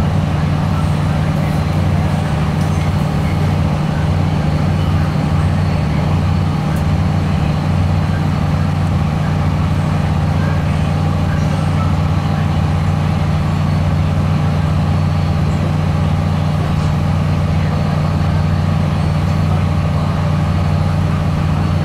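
Steady low drone heard inside a CAF Class 3000 diesel multiple unit under way, a mix of air-conditioning noise and the train's engine and running noise.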